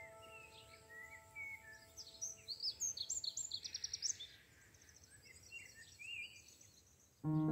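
Wild birds chirping and calling, with a quick rapid trill about three seconds in, over the last held notes of background music fading out. Piano music starts again near the end.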